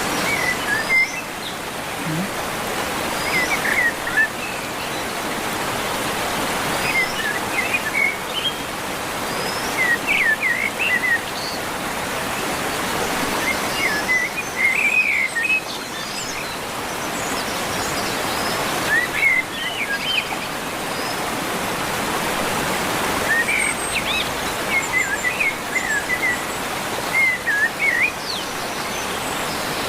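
Bird song in short chirping phrases that recur every few seconds, over a steady rushing hiss.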